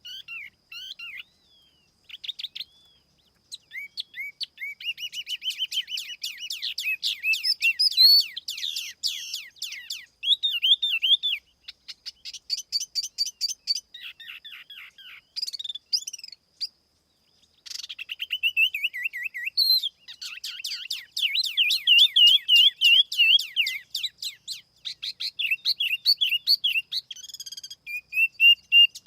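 A tiểu mi songbird singing a lure call: fast runs of high chirping notes and warbled trills in phrases, broken by brief pauses.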